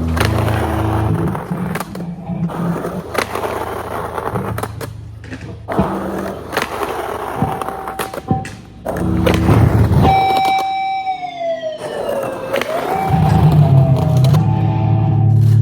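Skateboard doing crooked grinds: the Thunder truck's hanger scrapes along a ledge, with sharp clacks of pops and landings, as the hanger is worn down toward the axle. Guitar music plays underneath, and about ten seconds in a pitched tone glides downward for a couple of seconds.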